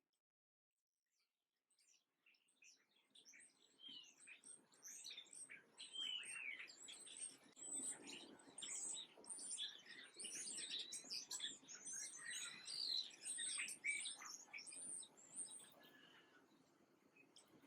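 Small birds chirping and calling, many short high chirps and trills overlapping. It starts from silence about two seconds in, builds to a busy chorus in the middle and thins out near the end.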